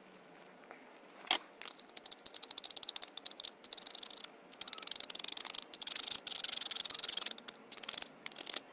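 Small metal carburettor parts being handled and scrubbed on the bench: one sharp click about a second in, then rapid scratchy rubbing and clicking that is loudest in the middle and stops and starts near the end.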